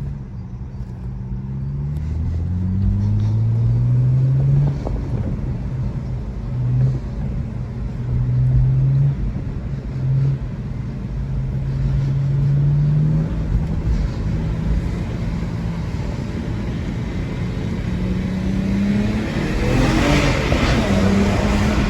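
BMW N54 twin-turbo straight-six with an Injen cold air intake, accelerating hard through the gears. Its pitch climbs, breaks and drops at each shift, then climbs again in a long pull. Near the end a loud rushing hiss rises over the engine note.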